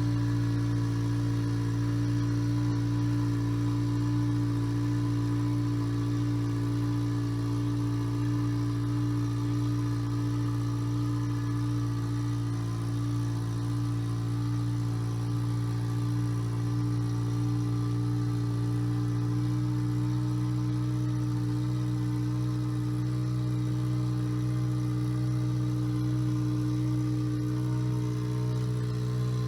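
All-terrain vehicle engine idling steadily, its pitch and level unchanging.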